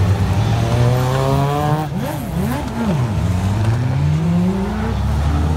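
Car engine being driven hard in an autotest: it revs up, drops sharply about two seconds in, gives a few quick up-and-down revs as the car manoeuvres, then rises steadily again.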